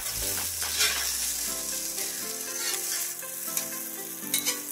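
Omelette frying in a hot Lodge cast iron griddle, a steady high sizzling hiss, with a few short scrapes and taps of a metal spatula against the pan.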